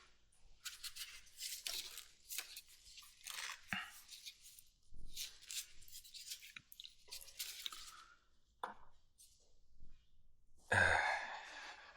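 Irregular scraping, rustling and clicking of hands and parts as a seized motorcycle carburetor bank is worked at to pull it out, with a short breathy exhale about eleven seconds in.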